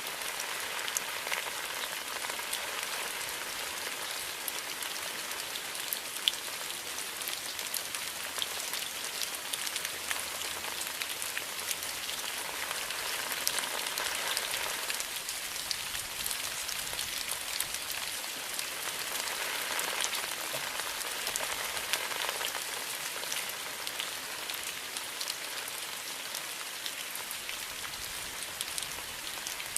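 Steady rain, a continuous hiss scattered with many separate drop ticks, swelling gently twice in the middle.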